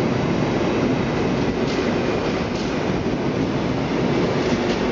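SBB passenger coaches rolling past close by: a steady rumble of wheels on rail, with a few faint clicks as the wheels cross rail joints.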